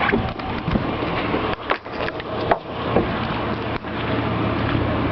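Someone climbing out of a pickup truck: several knocks and clicks of the door and moving about in the first few seconds, over a steady low hum of the truck's engine running.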